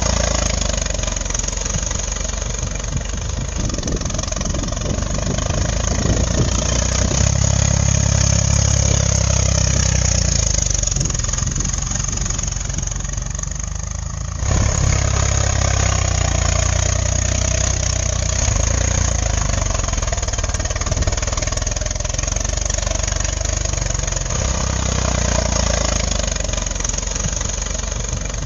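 A motor running steadily in an engine-like drone, with an abrupt cut about halfway through.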